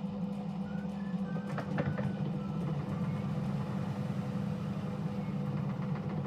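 Bosch WAX32GH1 washing machine turning its drum of towels during the balancing phase, trying to spread an unbalanced load before spinning: a steady low motor hum with a faint, wavering higher whine, and a few light clicks about two seconds in.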